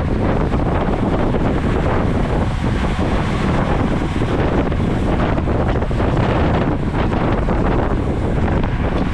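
Loud, steady wind buffeting the microphone of a camera carried along on a moving road bike.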